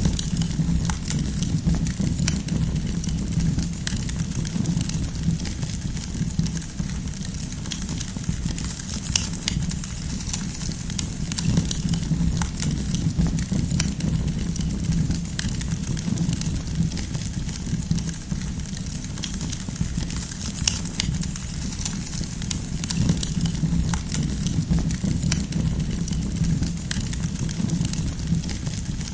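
Campfire of burning firewood crackling, with frequent small sharp pops and snaps over a steady low rumble of the flames.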